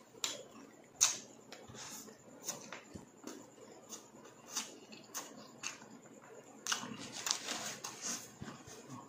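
Close-up chewing of crispy deep-fried pork mesentery (chicharon bulaklak) and rice: a string of short, sharp crunches and mouth clicks, about two a second, bunching together about seven seconds in.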